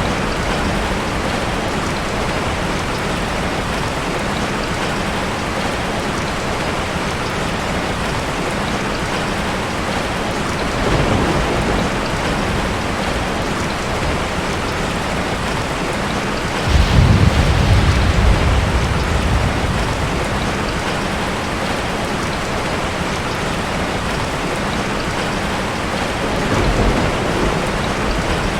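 Steady heavy rain, with three low rumbles of thunder, the loudest a little past the middle.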